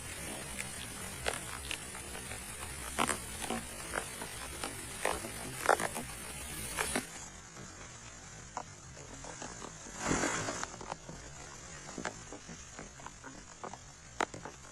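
Rain falling steadily, with scattered sharp taps of drops, and a short louder burst of noise about ten seconds in.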